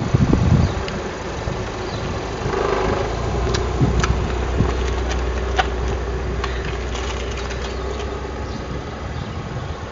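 A hatchback's engine running close by at low speed as the car turns across the road and pulls away, a steady low hum. Wind buffets the microphone at the start.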